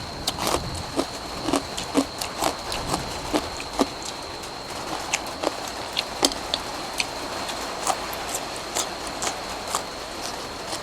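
Steady rain with irregular drips and taps, several a second, falling on a nearby surface, over a thin steady high tone.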